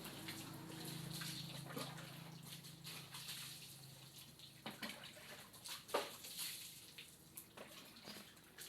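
Water splashing and dripping as a motorbike is washed by hand, with scattered sharp splashes and knocks, the loudest about six seconds in. A low steady hum fades out about halfway through.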